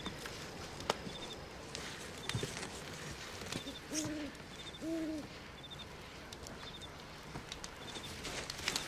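An owl hooting twice, about a second apart, each hoot a short call that rises and falls, over night ambience with a faint high chirp repeating every second or two.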